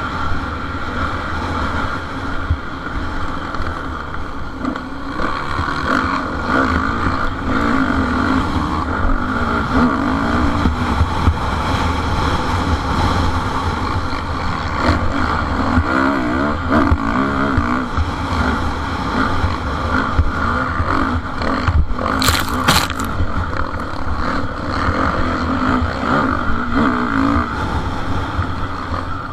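Motocross motorcycle engines running hard and revving up and down through the race, with a short sharp crackle about three-quarters of the way through.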